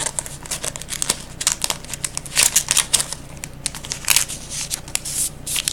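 Crinkling and clicking of a trading card being handled and slid into a plastic card sleeve, a run of irregular short rustles and ticks.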